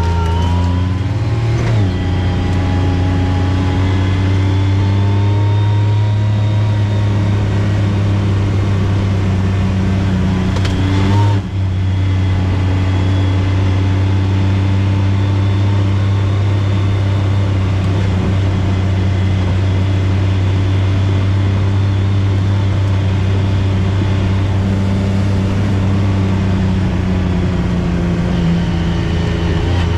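Off-road vehicle engine running steadily at cruising speed, its drone holding an even pitch, with a short dip in level about eleven seconds in.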